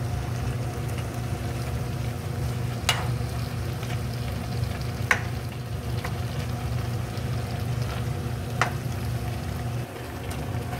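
Chicken, cabbage, potato and onion sizzling in a frying pan while a plastic spatula stirs them, with three sharp clicks of the spatula against the pan. A steady low hum runs underneath.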